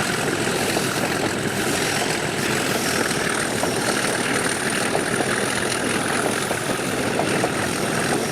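Class 37 locomotive 37109's English Electric 12CSVT diesel engine running steadily, heard together with the train's running noise, with a faint thin high whistle above it.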